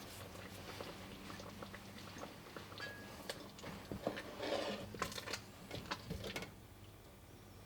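Light clicks and taps of dishes and utensils being handled in a kitchen, busier near the middle and stopping about six and a half seconds in.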